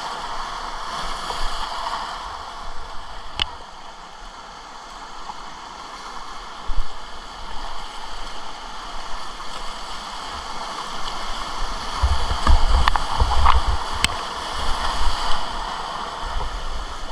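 Rushing whitewater around a kayak running rapids, with a few sharp knocks and, from about 12 seconds in, heavy low rumbling of water or wind buffeting the microphone.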